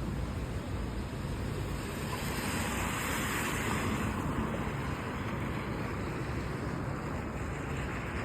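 Steady rain and traffic noise on a wet street, with a vehicle's tyres hissing past on the wet road, swelling about two seconds in and fading by the middle.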